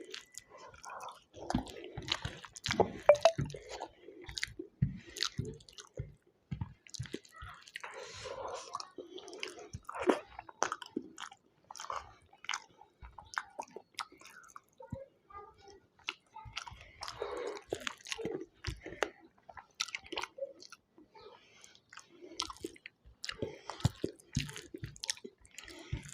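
Close-up chewing and mouth sounds of someone eating: irregular smacks, clicks and squelches of food being bitten and chewed.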